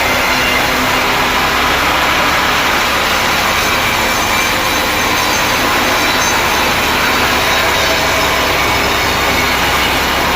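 Sawmill saw running through a mahogany log, a loud, steady cutting noise without a break.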